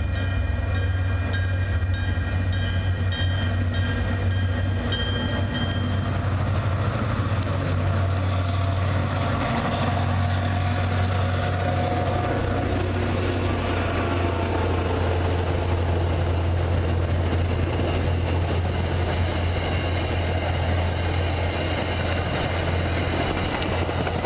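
MBTA commuter train passing a grade crossing: the diesel locomotive's steady low engine drone with wheel and rail noise as the coaches roll by. A crossing bell dings rapidly, about one and a half strikes a second, for the first several seconds, then stops.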